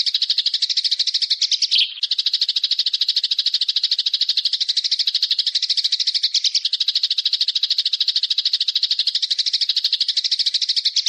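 A small bird's rapid, even rattling trill at about ten notes a second, held on one high pitch, with a brief break about two seconds in. It cuts off abruptly at the end.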